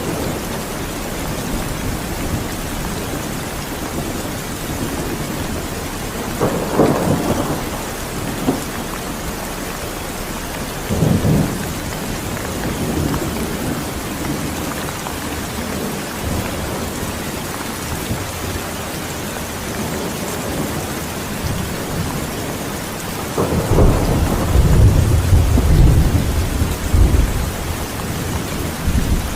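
Steady rain with rolls of thunder: two short rumbles in the first half, and a longer, louder rumble near the end.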